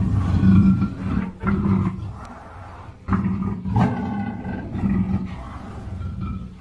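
Black panther growling in several rough bouts, with a brief lull about two seconds in.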